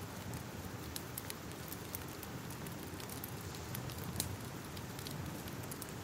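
Crackling fire: a steady low rumble with irregular sharp crackles and pops, one a little louder about four seconds in.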